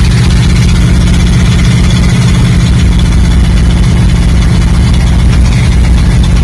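Pontiac 400 cubic-inch V8 engine in a Studebaker-bodied truck, idling loudly and steadily.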